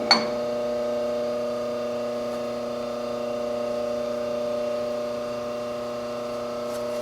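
Steady electrical mains hum with a buzzy set of overtones, and a brief click just after the start.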